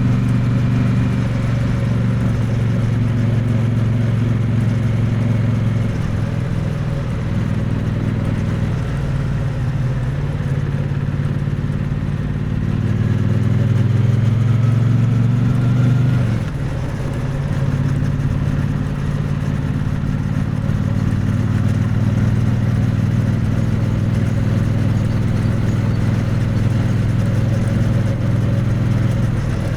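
Triumph Bonneville T100 parallel-twin engine and exhaust under way, picked up close to the exhaust: a steady cruising note that climbs in pitch for several seconds of acceleration, drops abruptly about halfway through, then runs steady again.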